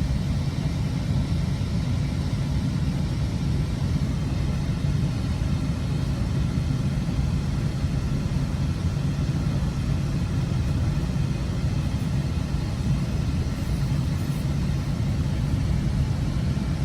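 Steady low rumble of a GO Transit bilevel passenger coach under way, heard from inside: wheels running on the rails with a constant low hum.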